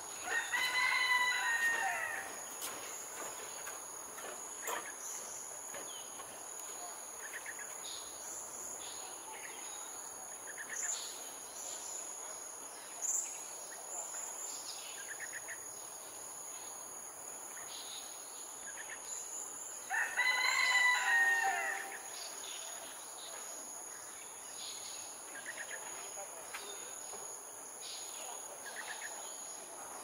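A bird calls twice, each call loud and about two seconds long, the first about a second in and the second about twenty seconds later. A steady high insect whine and scattered short bird chirps run beneath.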